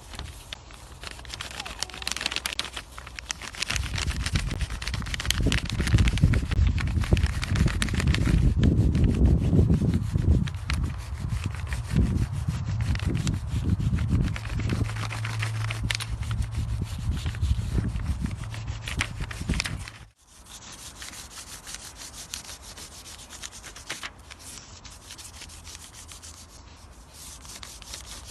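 Wax crayon rubbed back and forth over paper to take a rubbing, a continuous dry scratching with a low rumble under it. It stops at a sudden cut about two-thirds through, and quieter scratching goes on after.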